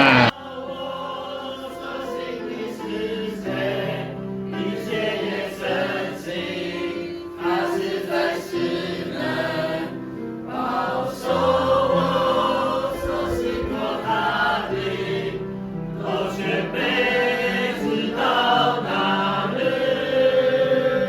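A choir of voices singing together in long held phrases, with short breaks between them.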